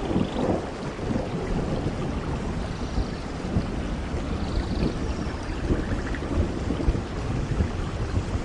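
Steady heavy rain with low, continuous rumbling of thunder.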